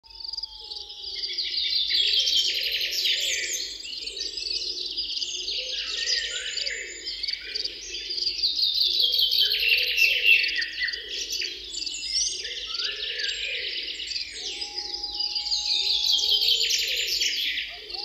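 Birdsong: fast chirping trills repeated over and over, several phrases overlapping throughout, with a fainter lower warbling underneath.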